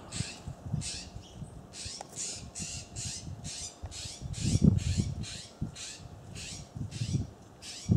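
Small birds giving short, harsh calls over and over, about three a second, each call dropping slightly in pitch. Low thumps rise to their loudest just before the middle.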